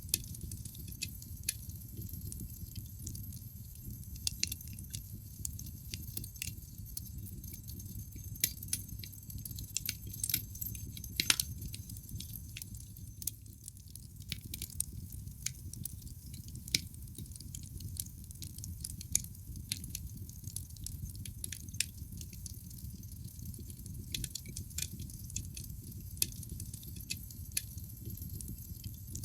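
Wood fire burning in a fireplace: irregular sharp crackles and pops from the burning logs over a steady low rumble of the flames, with one louder pop about eleven seconds in.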